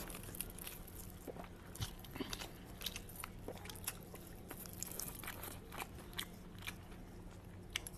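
Faint close-up eating sounds of a man eating chicken biryani and fried chicken by hand: scattered small clicks, soft crunches and smacks of chewing over a low steady hum.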